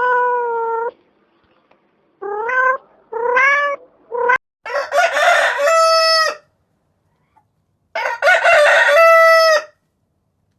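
A cat meowing four times in short rising calls, then a rooster crowing twice, the two crows about three seconds apart.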